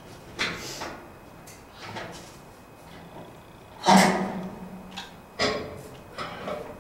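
Several separate knocks and clunks of hard objects being handled. The loudest is a heavy thud about four seconds in that rings on briefly, and a sharper knock follows about a second and a half later.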